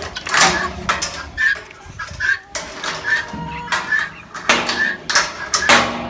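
Chickens clucking in short, repeated calls, mixed with brief crackling noises.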